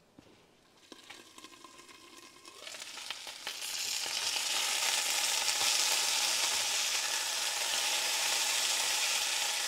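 Cubed potatoes frying in oil in a cast iron skillet: a faint sizzle under the lid, then a few light knocks, and about three seconds in the sizzle swells loud and steady as the lid comes off and the potatoes are stirred with a wooden spatula.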